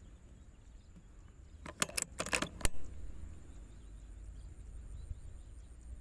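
A quick run of sharp metallic clicks and clinks, six or seven within about a second, starting about two seconds in, over a steady low rumble.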